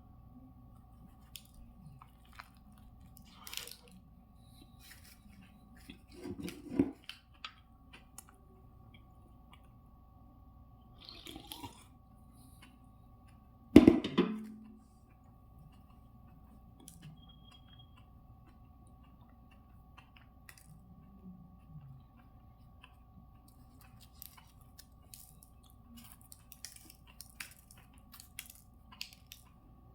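A person biting into and chewing a toasted sub sandwich, mostly quiet chewing with a few louder crunchy bites. One sharp knock about fourteen seconds in is the loudest sound.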